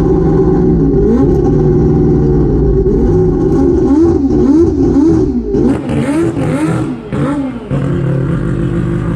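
Mazda rotary engine being revved, the throttle blipped over and over so the pitch rises and falls about twice a second, then dropping back to a steady idle near the end.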